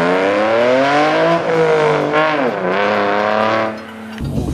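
A 2006 Nissan 350Z's 3.5-litre VQ35DE V6 pulling hard under acceleration, its exhaust note rising in pitch, dropping back twice as it shifts up, then falling away near the end as the throttle eases.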